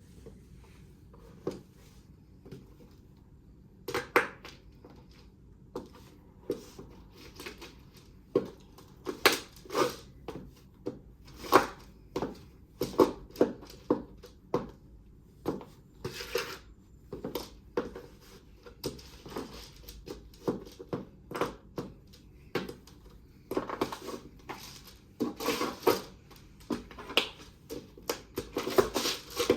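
Irregular crunching and clicking handling sounds, sparse at first and coming thick and fast near the end, with no vacuum cleaner running.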